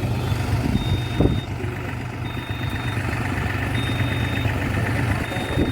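New Holland 4710 tractor's diesel engine running steadily, with a high electronic beep sounding about every second and a half, four times.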